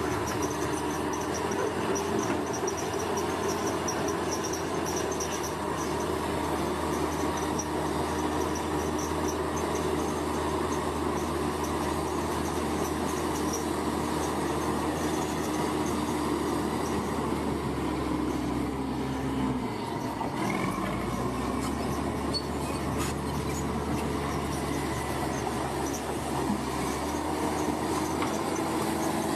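A heavy construction machine's engine running steadily. Its pitch dips for a few seconds about two-thirds of the way through, then comes back up.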